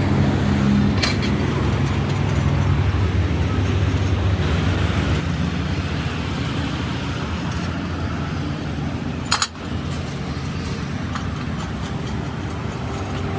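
An engine or motor running steadily with a low hum, with a sharp click about a second in and a louder one about nine seconds in.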